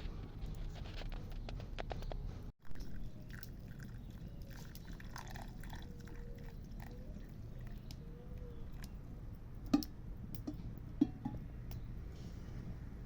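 Campfire crackling: a low steady rumble with scattered small crackles and two sharper pops near the end.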